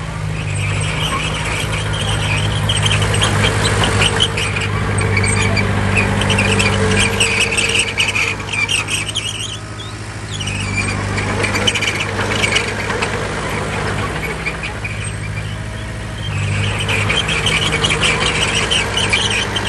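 Bulldozer's diesel engine running under load, with squealing and clattering from its steel crawler tracks; engine and track noise ease off briefly about halfway through, then pick up again.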